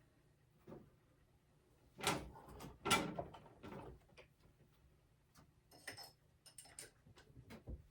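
Metal parts being handled on a workbench: two heavier clunks about two and three seconds in, then a run of light clicks and metallic taps.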